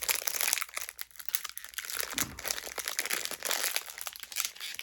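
Plastic trading-card pack wrapper crinkling and tearing as a glued pack is pulled open, a dense run of crackles.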